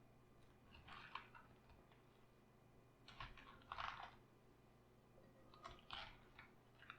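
Faint, crisp crunching of raw cabbage being handled, in three short spells about two to three seconds apart.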